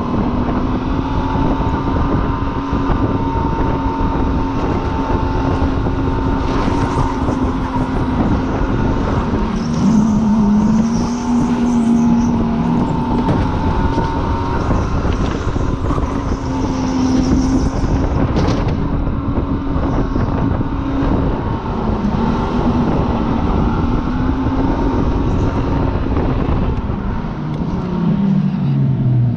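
Supercharged car engine running hard at high revs for most of the stretch, its pitch holding steady with a few brief dips. Right at the end the revs fall away sharply as the car slows.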